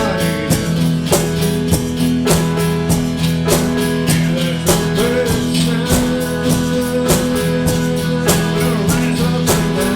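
Acoustic guitar strummed in a steady rhythm, holding sustained chords, as instrumental music.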